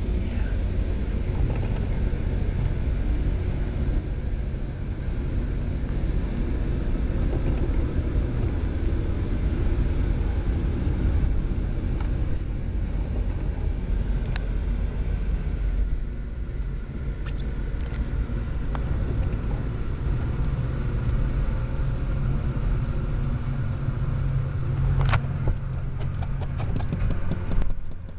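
Loram rail grinder train running with a steady low rumble, with a few sharp clicks and a quick run of ticks near the end.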